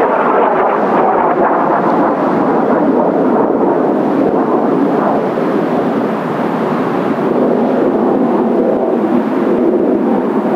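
Jet noise from Kawasaki T-4 trainers in flight: a steady, deep rushing rumble with no clear rise or fall.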